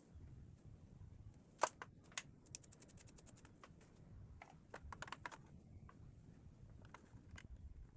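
Small sharp clicks and taps of hard plastic parts being handled on a Roomba robot vacuum: one louder click, then a quick run of about a dozen clicks, with scattered clicks after.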